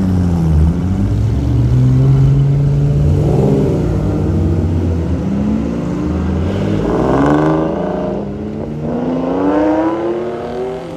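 A car engine revving and accelerating away, its pitch rising, dropping once at a gear change about eight seconds in, then rising again as the car pulls away and fades.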